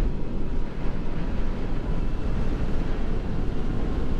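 Motorcycle engine running steadily while cruising, with wind rushing over the microphone.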